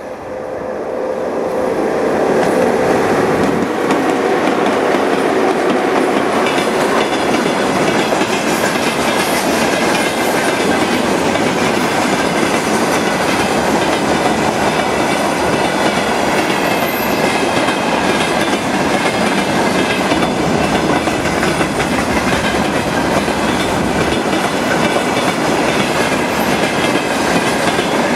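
Freight train behind a VL80S electric locomotive passing close by: a loud, steady rolling rumble with rapid clickety-clack of wagon wheels over the rail joints. It swells over the first couple of seconds as the train arrives, then holds steady.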